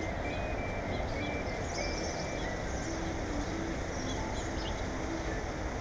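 Wild birds giving several short, faint, high-pitched chirps, a cluster about two seconds in and more around four to five seconds, over a steady low background rumble.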